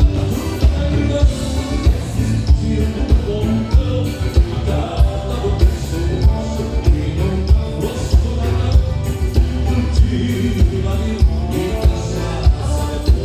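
Live band playing gaúcho dance music with a steady bass-drum beat, a singer's voice over it.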